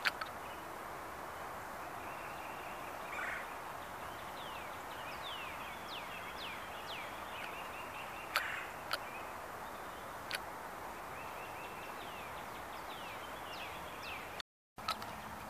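Woodland birds calling, a scattering of short whistled notes that fall in pitch, over a steady background hiss. A few sharp clicks or snaps come past the middle.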